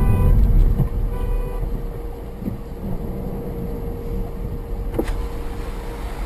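A car horn sounds in short blasts during the first second and a half. After that, a car engine runs under steady road rumble, with one sharp click about five seconds in.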